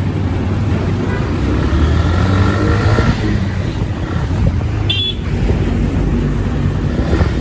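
Motorcycle riding along a road: steady engine and road rumble, with a vehicle horn sounding for about two seconds starting about a second in, and a short sharp click about five seconds in.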